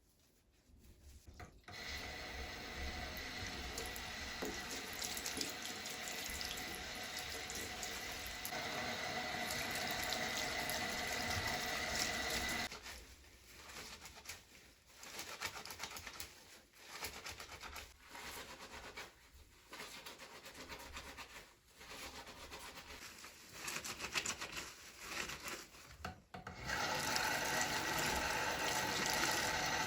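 Water running from a tap into a sink. It starts about two seconds in and runs steadily until about halfway, when it cuts off. It then comes in short, uneven spurts and splashes, and near the end it runs steadily again.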